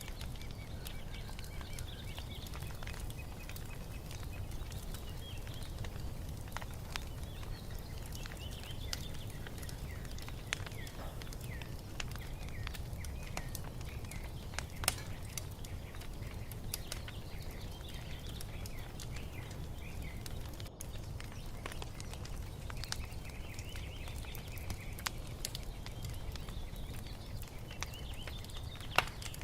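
Wood fire crackling, with scattered sharp pops over a steady low rumble, while small birds chirp in short bursts on and off.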